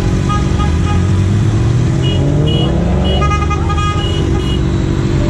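KTM Duke 125's single-cylinder engine running under the rider, rising in revs as it accelerates about a second and a half in. A run of short horn toots follows about three seconds in.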